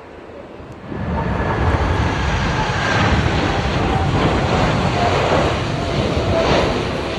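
Jet airliner passing low overhead: its engine noise comes in suddenly about a second in and stays loud, with faint whining tones that slowly fall in pitch as it goes by. Strong wind rumbles on the microphone.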